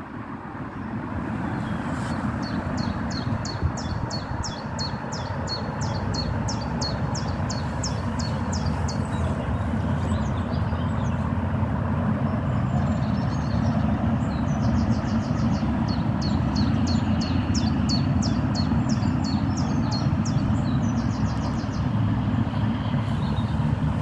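A steady low outdoor rumble. Over it, a small bird sings a fast series of high repeated notes, about four a second, in two runs of several seconds each.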